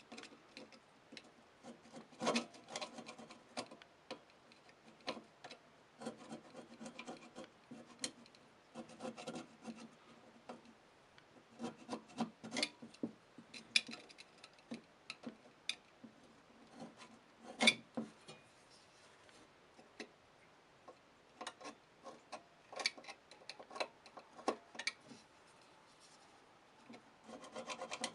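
Hand work on the parts of an old scale: irregular bouts of scraping and rubbing with sharp clicks of metal parts and tools, the loudest click about two-thirds of the way through.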